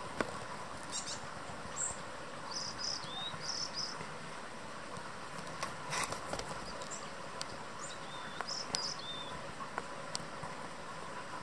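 Small birds giving short, high call notes in two spells, about a second in and again around eight seconds in, with a few sharp clicks.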